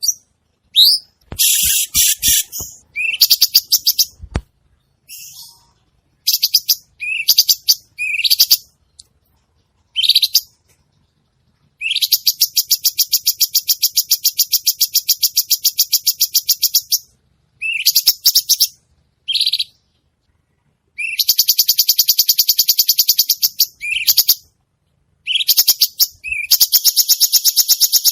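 A cucak cungkok singing continuously: short rising whistled notes alternating with long, very fast, high-pitched chattering trills lasting several seconds each. A few soft knocks sound near the start.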